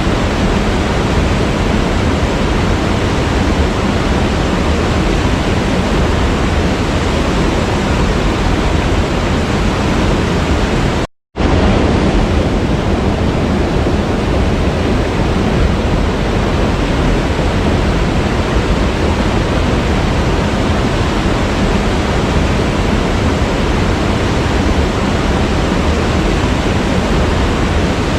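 Steady rushing of a waterfall, an even noise across low and high pitches, broken once about eleven seconds in by a gap of silence lasting a fraction of a second.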